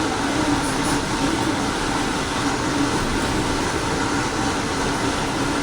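Steady noise of an Amtrak passenger train: an even hiss with a low hum beneath it, with no distinct events.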